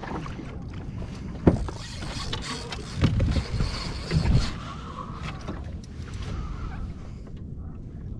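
Wind on the microphone and water moving around a small boat at sea, with a low steady rumble, a sharp knock about a second and a half in, and a few heavier bumps around the middle.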